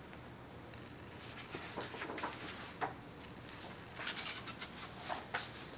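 Faint rustling and light clicks of a picture book's paper pages being handled, with a denser burst of rustling about four seconds in.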